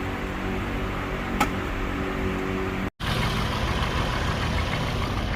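A heat gun's fan motor running with a steady hum and a single click, then, after an abrupt cut, the Lexus IS 250's engine idling: the car now starts after the shift control ECU was heated.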